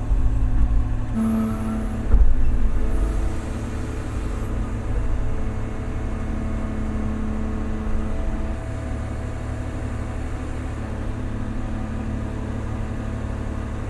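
Large excavator's diesel engine running under working load, with a steady low rumble and a steady whine from about a second in until about eight seconds in. It surges louder near the start and again about two seconds in.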